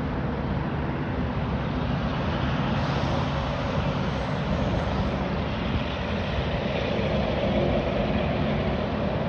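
Jet airliner engines running, a steady rushing noise without distinct tones that swells slightly in the second half.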